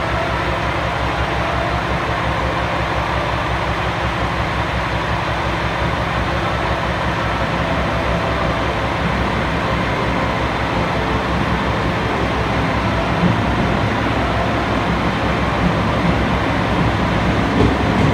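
Electric commuter train pulling into an elevated station platform: a steady rumble that grows a little as it draws near, with a few knocks in the last few seconds as the cars pass close by.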